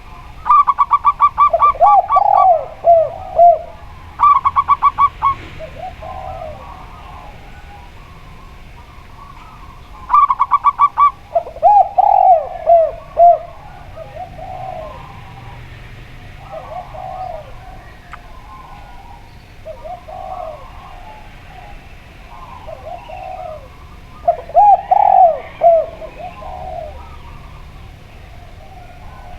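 A zebra dove and a spotted dove cooing in turn. There are three loud bouts, near the start, about ten seconds in and about 25 seconds in. Each is a quick run of high staccato notes followed by several lower, drooping coos, with fainter coos between the bouts.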